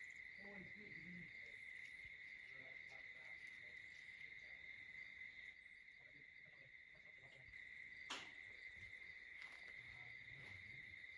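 Faint, steady chorus of night insects: one continuous high trill that does not let up. A single sharp click sounds about eight seconds in.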